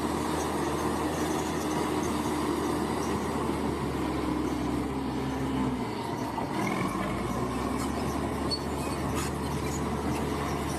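Bulldozer's diesel engine running steadily at work, with a brief dip in its low hum about six seconds in.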